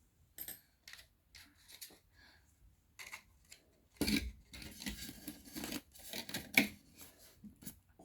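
Round cake box and its plastic lid being handled up close: scattered crisp clicks and crinkles, then a denser stretch of crackling from about halfway, with one sharp crack near the end.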